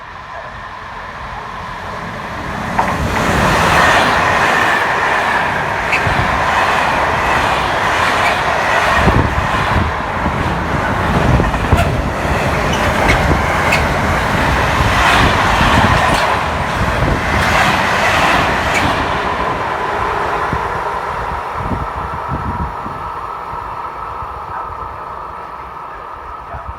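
Electric-hauled train passing through the station: the rumble builds about three seconds in, stays loud with rapid clatter of wheels over rail joints, then fades as the train draws away.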